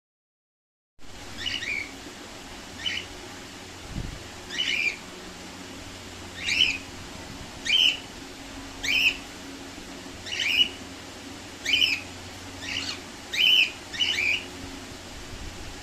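A pet bird calling over and over: about a dozen short, loud chirps, roughly one a second, starting about a second in.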